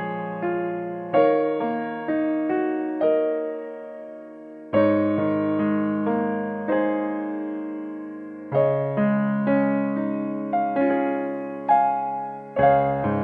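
Background piano music: a slow, gentle melody of struck notes and chords that ring and fade, with a new chord entering every few seconds.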